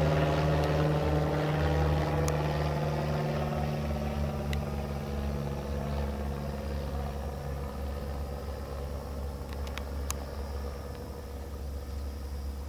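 Cessna light aircraft's piston engine and propeller flying past, its pitch slowly sinking and the sound fading steadily as it moves away.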